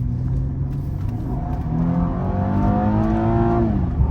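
Car engine pulling away under acceleration: a steady low hum, then a rising engine note through the second half that drops sharply near the end, as at a gear change.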